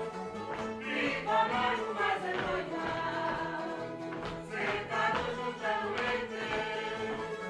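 Music with choral singing, several voices holding pitched lines over a steady accompaniment.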